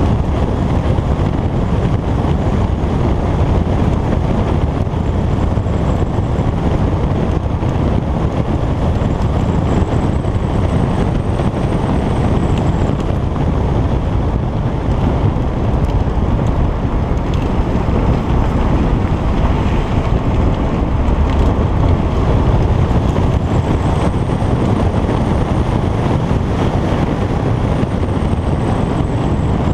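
Alfa Romeo Giulietta Quadrifoglio Verde's 1750 TBi turbocharged four-cylinder engine pulling along the road, heard on board with tyre noise and wind buffeting the microphone. The sound is steady and dense, with a faint high whine that rises and falls twice, around the middle and near the end.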